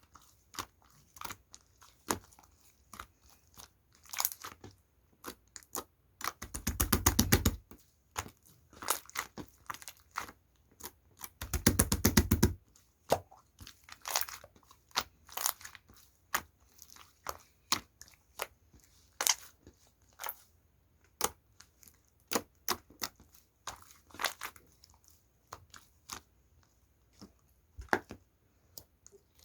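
Slime being squished and pressed by hand, giving irregular sharp clicks and pops, with two short runs of rapid crackling about six and eleven seconds in.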